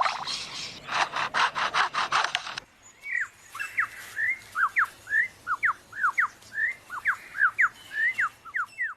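Superb lyrebird mimicking chainsaws: rasping, stuttering saw-like noise, which gives way about two and a half seconds in to a quick run of clear whistled notes sweeping down and up.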